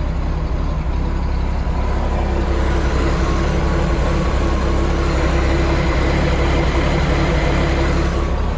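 Ford Crossflow four-cylinder engine of a ramp truck idling steadily, warming up while waiting for the thermostat to open.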